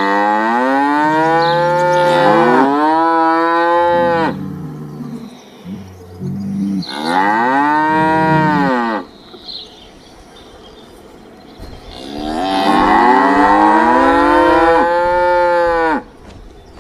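Cow mooing: a series of long moos with quieter pauses between, each call rising and then falling in pitch, the last one the longest.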